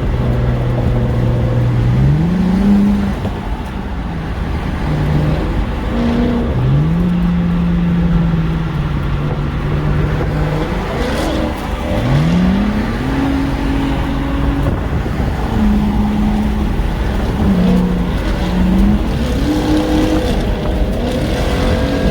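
Ford Mustang GT's 5.0 V8 with straight-piped exhaust, X-pipe and resonator delete, running loud at highway speed over steady road and wind noise. The exhaust note rises in pitch about four times as it accelerates, holds, then drops back.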